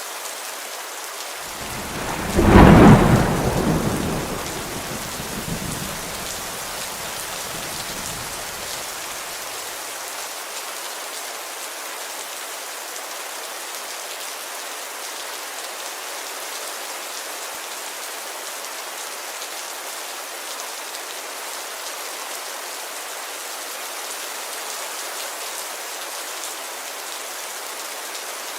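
Steady heavy rain with a single thunderclap about two seconds in, a sharp crack that rolls off into a low rumble fading over several seconds.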